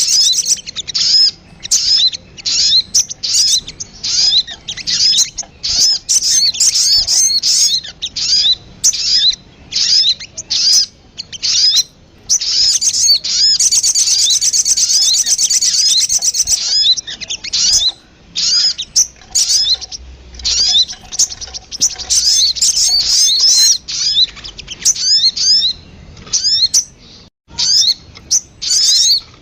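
Recorded sogon bird calls played as a trapping lure: rapid, high-pitched chirps and trills repeated almost without a break, with a few brief pauses and a short dropout near the end.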